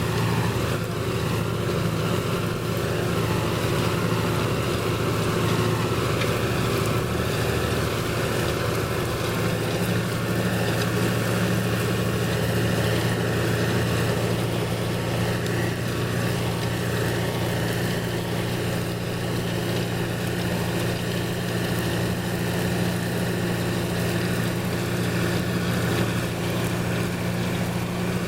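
Deutz-Fahr 150 MK3 tractor's six-cylinder diesel engine running steadily under load, pulling a five-furrow plough at about 7 mph.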